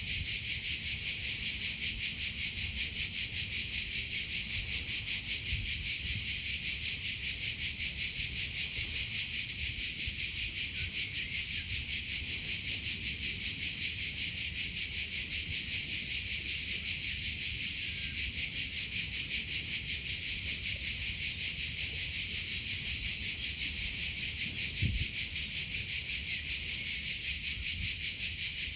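Cricket chirping continuously: a steady, rapidly pulsing high trill that keeps an even rhythm throughout.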